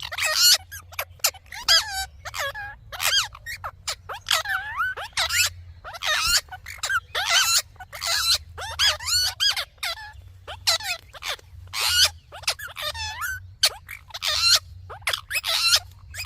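Indian ringneck parakeet chattering: a rapid string of short, warbling calls with quick rises and falls in pitch, one after another with brief gaps.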